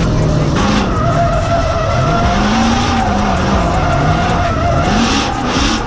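BMW 4.4-litre V8 drift car revving up and down repeatedly while its tyres squeal and skid through a drift.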